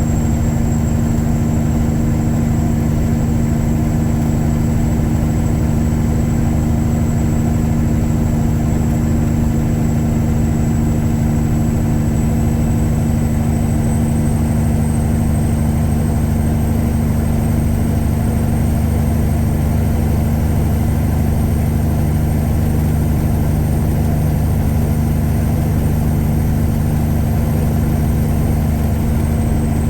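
Tuned Caterpillar 3406E inline-six diesel in a Freightliner Classic truck, running steadily at an even engine speed. A faint high whine over the engine rises slightly in pitch partway through and drops back near the end.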